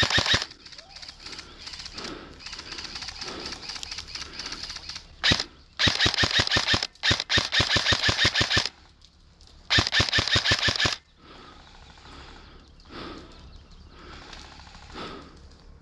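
Airsoft electric rifle firing rapid full-auto bursts: a short burst at the start, a single shot about five seconds in, a long string of bursts just after, and another burst near the eleven-second mark.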